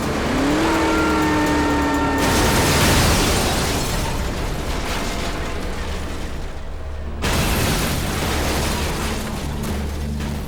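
Film sound effects of a van crash: a squeal for the first two seconds, then a long loud crash as the van rolls, and a second sudden crash about seven seconds in, with the score playing underneath.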